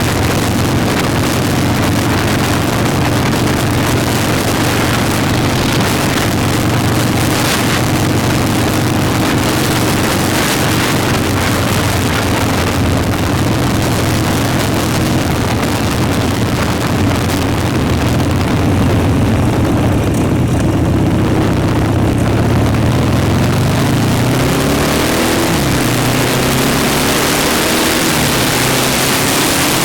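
Motorcycle engine running steadily while riding, with wind rushing over the microphone; about three-quarters of the way through the engine pitch dips and then climbs again as the bike slows and speeds up.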